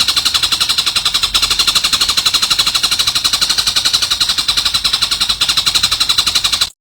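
A songbird giving a long, fast, even rattling trill, the notes repeating many times a second without a break, which cuts off abruptly near the end.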